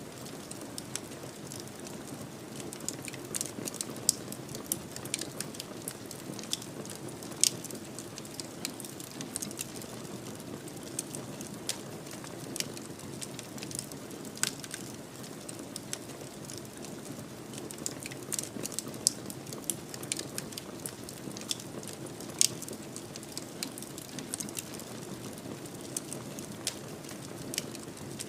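Wood fire in a fireplace crackling steadily: a low hiss and rumble of burning wood with frequent sharp, irregular pops and snaps.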